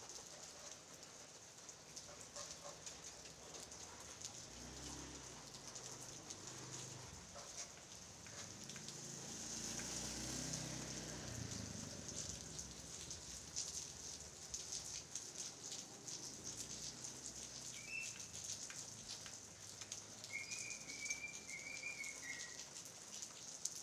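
Steady rain falling on tree leaves, a dense patter of drops. A low rumble swells and fades in the middle, and a bird calls briefly twice near the end.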